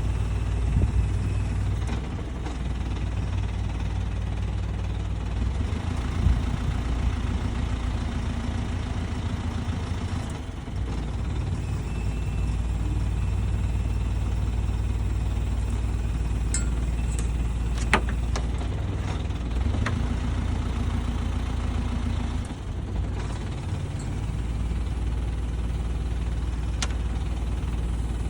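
An engine running steadily at idle, with a few sharp metallic clicks and knocks over it, the clearest about two-thirds of the way through.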